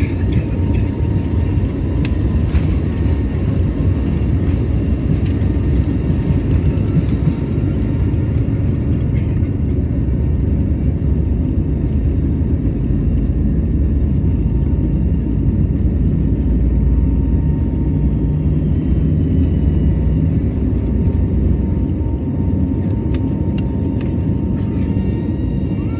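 Airbus A320neo jet engines at takeoff power: a loud, steady low rumble with a thin steady whine. The higher hiss fades after about seven seconds as the airliner climbs away.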